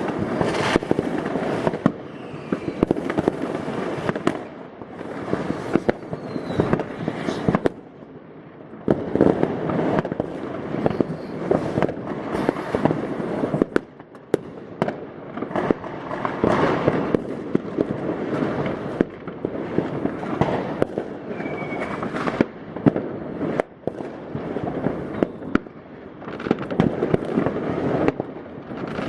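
New Year's Eve fireworks and firecrackers going off continuously across the neighbourhood: a dense crackling with many sharp bangs, swelling and easing every few seconds.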